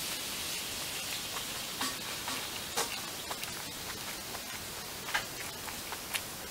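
A person chewing a mouthful of soft food, with a few short wet mouth clicks over a steady hiss.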